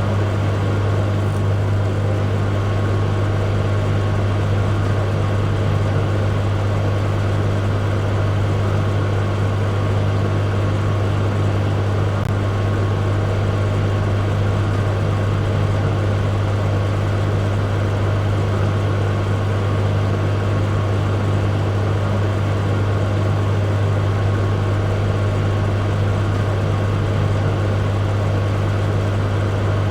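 Microwave oven running: a steady low hum over an even whir, with no change in level or pitch.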